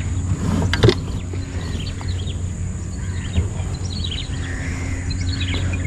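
Small birds chirping again and again over a steady low hum, with a single knock about a second in.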